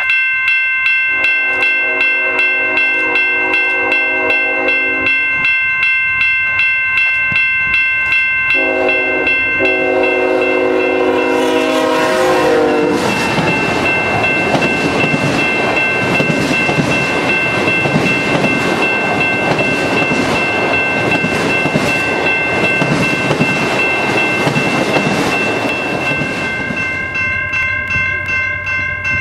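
Freight train led by a BNSF diesel locomotive sounding its horn in two long blasts, the second dropping in pitch as the locomotive passes, then the train rolling by with a loud rumble that eases near the end. A grade crossing bell rings steadily, about twice a second, throughout.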